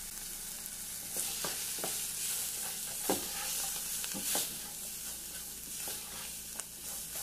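Chopped onion, tomato and herbs sizzling in oil in a nonstick pot, with turmeric just added. From about a second in, a silicone spatula stirs them, with several knocks and scrapes against the pot.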